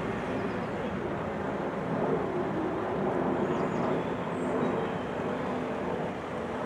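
Electric multiple-unit train running away into a tunnel: a steady distant rumble with a faint wavering hum.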